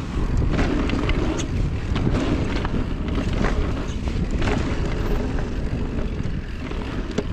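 Riding sound of a Salsa Notch carbon e-mountain bike on a dirt trail: wind buffeting the microphone and tyres rumbling steadily, with scattered clicks and rattles from the bike over bumps.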